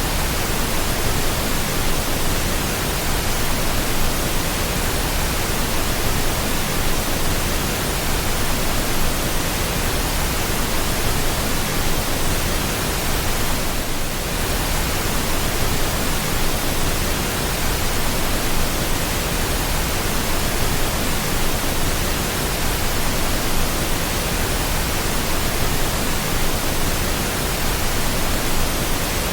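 Steady pink noise: an even, unbroken hiss spread across all pitches, with a slight brief dip in level about halfway through.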